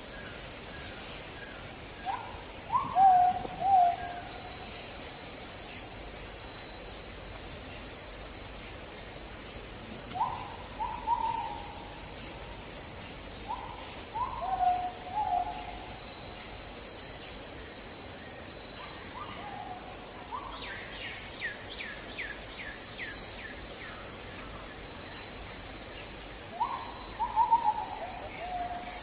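A steady, high-pitched chorus of insects, with a bird repeating a short, low phrase of a few falling notes every several seconds. About two-thirds of the way through, a second bird gives a quick run of descending chirps.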